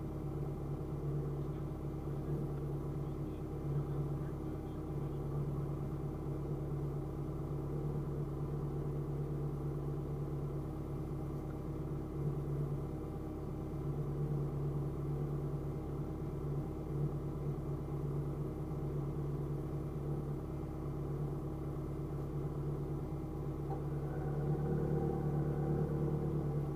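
Car engine idling while stopped, heard from inside the cabin: a steady low hum that grows a little louder near the end.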